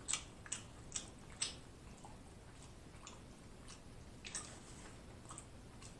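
Faint wet mouth clicks and soft squishes of chewing pizza close to the microphone: a few clicks in the first second and a half, one more about four seconds in, and quiet chewing between.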